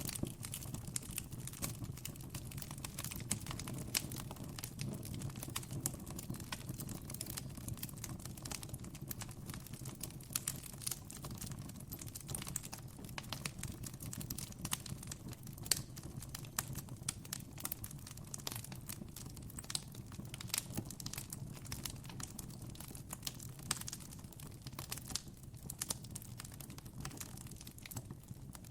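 Wood campfire crackling, with a constant stream of irregular sharp pops and snaps over a low steady rumble.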